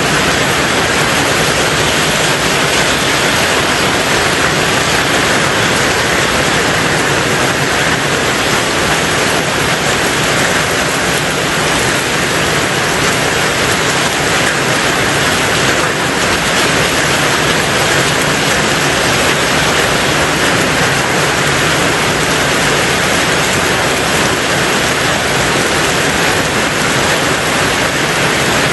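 Rain falling steadily on a tin roof: a loud, dense, even hiss with no let-up and no single drops or thunder standing out.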